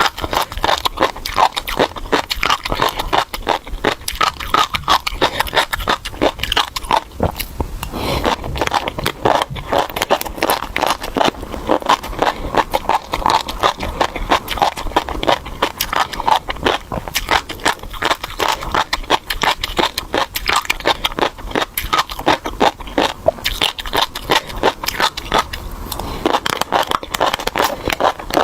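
Close-miked chewing of a mouthful of tobiko (flying fish roe), the tiny eggs crunching and popping between the teeth in a dense, continuous crackle.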